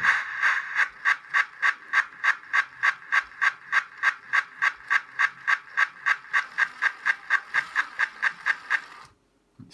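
Sound module in a Darstaed model Jinty steam tank locomotive playing steady exhaust chuffs, about four a second, that stop abruptly about nine seconds in.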